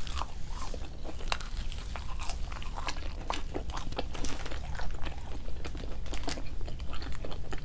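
Close-up chewing and biting of McDonald's fast food, with irregular crisp crunches scattered through.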